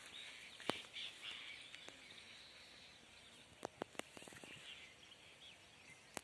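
Faint forest ambience with birds chirping, broken by a few sharp clicks: one under a second in and two close together near four seconds.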